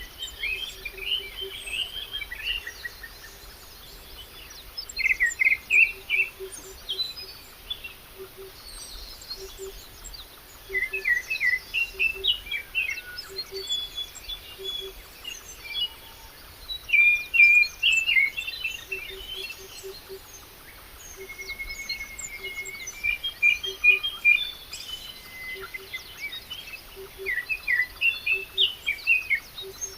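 Several birds chirping and singing together in quick, overlapping phrases, with a low hooting note repeated in short groups of two to four throughout.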